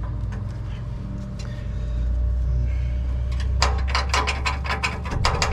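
A vehicle engine idling with a steady low hum. About three and a half seconds in, a quick run of sharp metallic clanks begins, about four a second.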